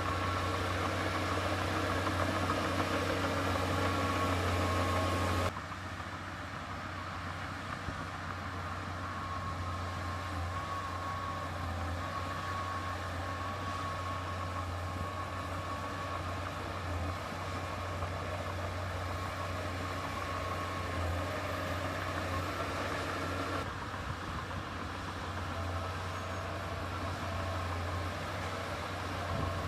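Heavy diesel engine of earthmoving machinery running steadily, with a deep drone and a faint steady whine above it. The sound drops and changes abruptly about five and a half seconds in, and shifts again near the end.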